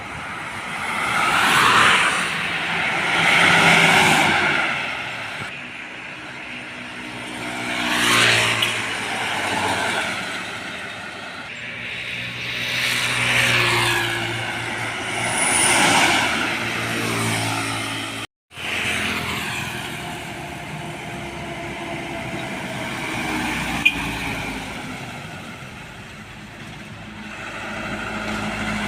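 Road traffic passing close by: a string of vehicles, trucks among them, each swelling and fading with engine and tyre noise, their engine tones dropping as they go past. The sound cuts out for a moment about two-thirds of the way through.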